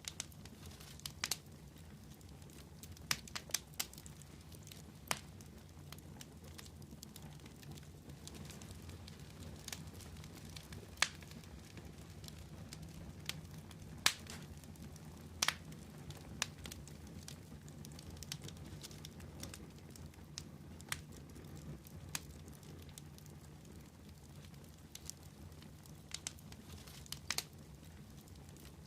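Wood fire crackling: sharp, irregular pops and snaps over a steady low rumble of flame, with a few louder snaps in the middle.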